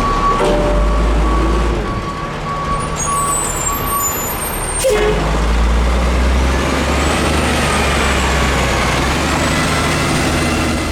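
Peterbilt 310 garbage truck running, with its reversing beeper sounding in even pulses for the first four seconds. A sudden short burst comes about five seconds in, and the engine runs on after it.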